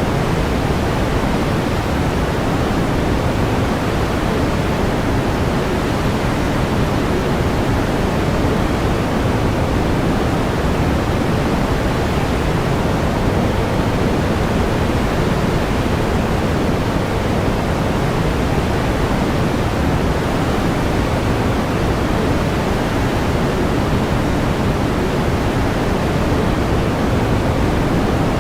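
Continuous pink noise: an even, steady hiss with more weight in the low end.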